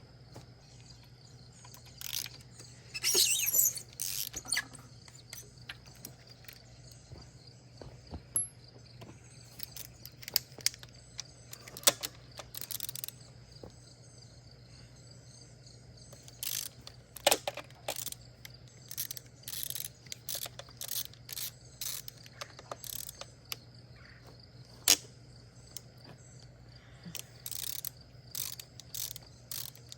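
Hand tools working on a Ford 250 inline-six engine: irregular clicks, clinks and short rattling runs of metal on metal, over a steady low hum.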